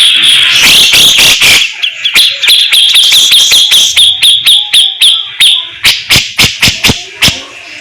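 Grey-cheeked bulbul (cucak jenggot) singing a rapid, harsh chattering 'besetan' song: a dense run of high-pitched notes, then quick repeated sharp notes about four or five a second, then a run of sharp clicking notes that drops away near the end.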